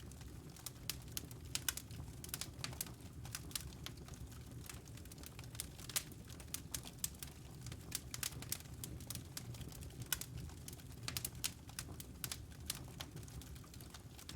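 Wood fire crackling: irregular sharp pops and snaps from burning logs, several a second, some louder than others, over a low steady rumble of the flames.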